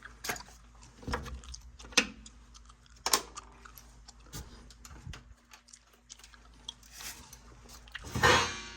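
Scattered clicks and knocks of a tool working screws out of a furnace's sheet-metal inducer assembly, with a louder scraping rattle near the end.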